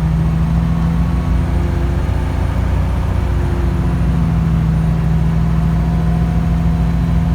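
Kenworth T800 truck's diesel engine running steadily, a loud low rumble with a constant pitch.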